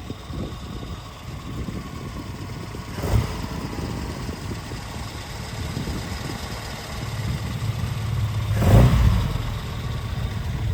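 A 1963 Austin-Healey Sprite's 1275cc fast-road four-cylinder engine, on a 40DCOE Weber carburettor, runs steadily, with a short sharp knock about three seconds in. The engine note swells to a peak near the end, as with a rev or a drive-past, then eases back.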